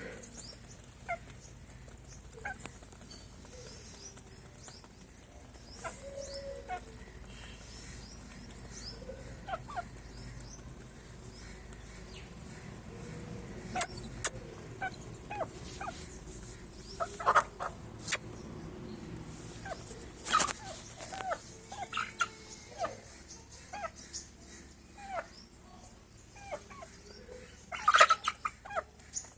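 Aseel chickens making short clucks and calls at irregular intervals, mixed with sharp clicks and taps; the calls come thicker and louder near the end.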